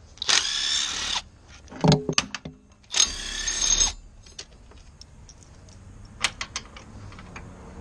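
Two short bursts of a power tool spinning up, each rising in pitch, with a metal clank between them and a few light clicks later, as work begins on pulling a Mustang engine.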